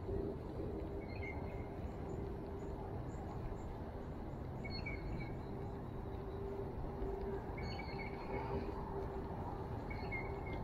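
Steady outdoor background rumble with a faint continuous hum, as a small bird chirps briefly about four times, every few seconds.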